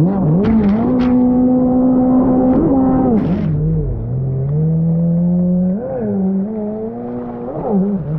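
Fast Powersports F16 jet ski engine running under throttle. Its note holds steady, drops to a lower pitch about three seconds in, then holds there with brief rises and dips as the throttle changes.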